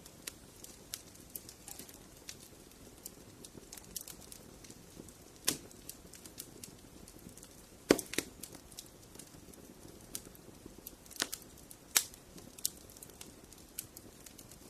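Wood fire burning in a fireplace, crackling: a low steady hiss of flames with irregular sharp snaps and pops, a handful of them louder, the loudest about eight seconds in.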